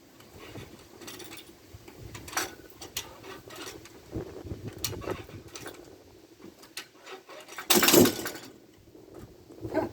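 Irregular clicks and knocks of metal gear being handled, with one louder clattering rattle of under a second about eight seconds in.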